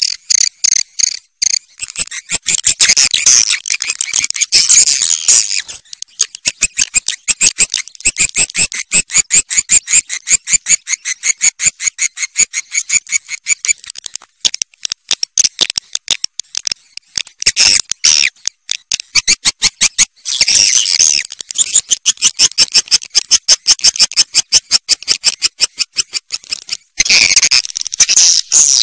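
Swiftlet calls: fast runs of sharp chirps, several a second, broken by stretches of denser twittering. This is a swiftlet call sound of the kind played to draw the birds to nest.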